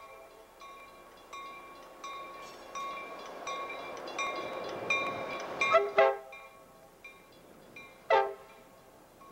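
Coaster commuter train arriving at a station platform, a bell ringing over and over as it rolls in, fading as it goes. It gives short horn blasts about six seconds in and again near the end.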